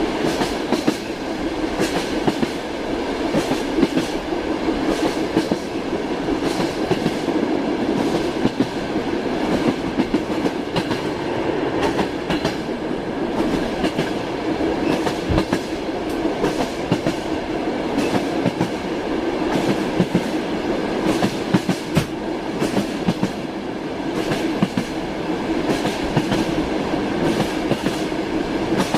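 A railway train running steadily, its wheels clattering over the rails, with a continuous rumble and frequent short clicks and knocks.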